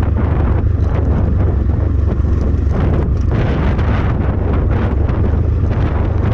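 Strong wind buffeting the action camera's microphone, a loud steady rumble with gusty surges, with the dirt bike's engine running underneath it.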